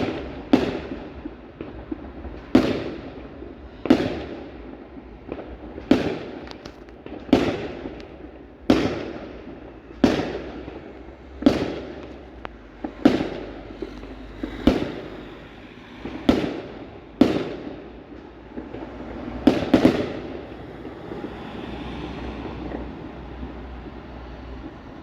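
Fireworks going off in a steady series of sharp bangs, about fifteen, roughly one every second and a half, each trailing off in an echo. Near the end a quick double bang comes, then the bangs stop and a steady low rumble remains.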